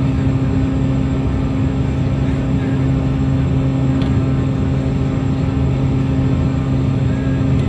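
Toppy 2 gas-turbine jetfoil running at speed: a loud, steady drone with a low, even hum under a rushing noise.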